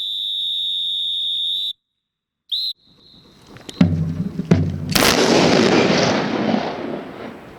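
A long steady whistle blast, then a short toot, then a ceremonial salute: two thuds and a loud blast about five seconds in whose report rolls on and fades over a couple of seconds.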